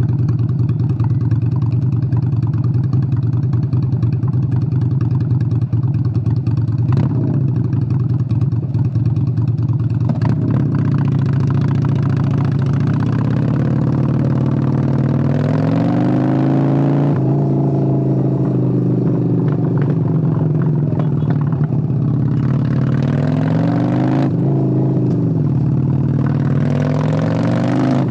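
Honda Steed 600 V-twin motorcycle engine running steadily, then revving up and dropping back in pitch several times in the second half, as when pulling away and changing gear.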